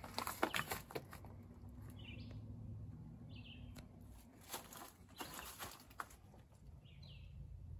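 Faint outdoor ambience: a bird gives four short chirps, two about two seconds in and two near the end, with a few scattered light clicks and taps in between.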